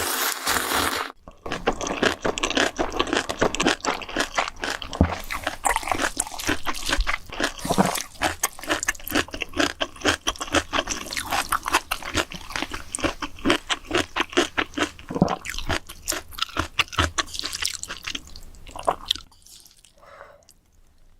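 Close-miked mouth eating sounds: rapid, dense crunching and chewing of food, which dies down to faint mouth sounds near the end.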